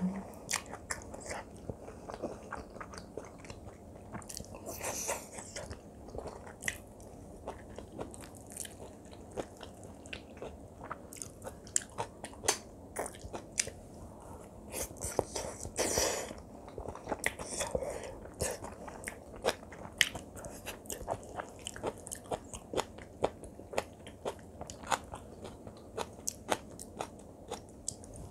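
A person chewing mouthfuls of kimchi fried rice, close-miked, with many short sharp mouth clicks and smacks and a few longer, louder swells of sound.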